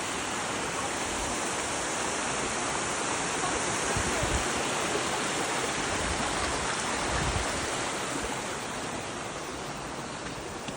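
Steady rush of flowing water, swelling a little in the middle and easing toward the end, with low rumbles of wind on the microphone about four and seven seconds in.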